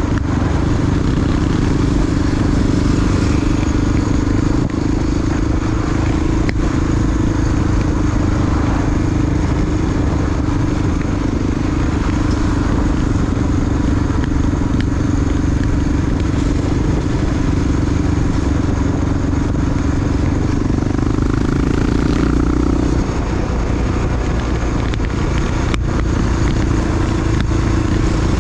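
Big single-cylinder four-stroke Honda XR dual-sport motorcycle engine running steadily under way. The note eases off slightly about three quarters of the way through.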